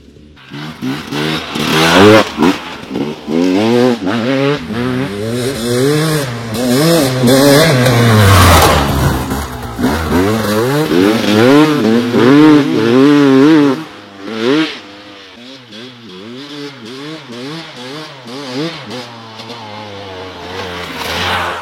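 Motorcycle engine revving, its pitch rising and falling over and over. It is louder for the first two thirds and quieter after about fourteen seconds.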